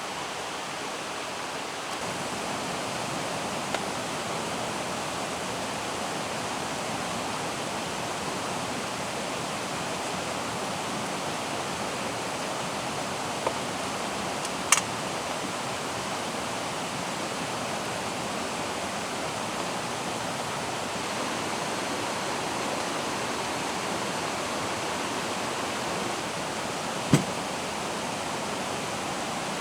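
Steady rush of a mountain stream mixed with falling rain, with a few sharp taps over it, the loudest about halfway through and another near the end.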